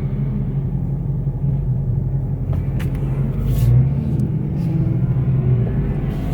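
Car engine and road noise heard from inside the cabin while driving: a steady low drone that swells briefly a little past halfway through, with a few faint clicks.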